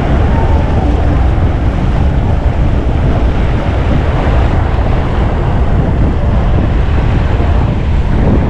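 Wind buffeting the microphone on an open boat: a loud, steady low rumble under a constant rushing hiss.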